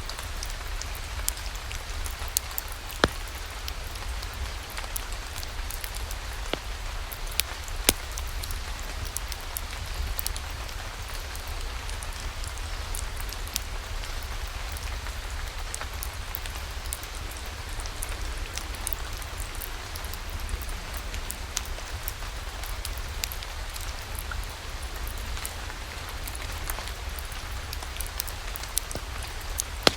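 Steady rain falling, with scattered sharp crackles and pops from a wood fire burning in a fireplace; the loudest pops come about 3 and 8 seconds in.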